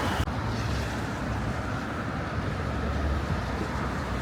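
Road traffic going by: a steady low rumble of engines with tyre noise. The high hiss drops away sharply just after the start.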